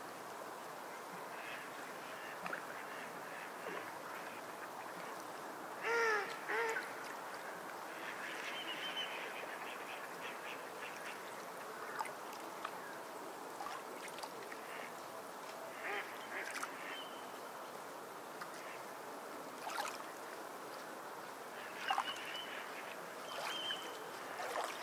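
Birds calling over a steady background hiss, with two loud calls falling in pitch about six seconds in and scattered shorter calls later.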